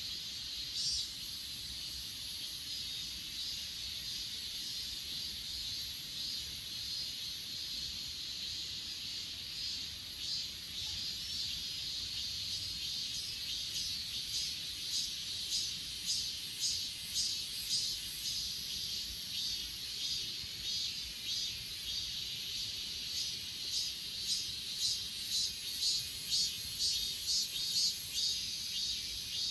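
Grass insects such as crickets chirping in a steady high-pitched chorus. From about halfway on, one insect adds a repeating pulsed chirp, roughly two a second.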